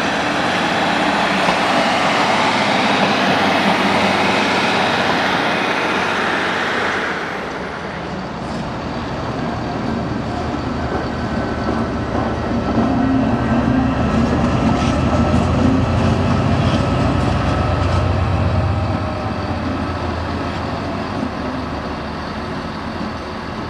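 A train running through a station: a loud rushing rattle for the first seven seconds or so that then drops away, followed by a deep engine rumble that swells from about twelve seconds in and fades near nineteen.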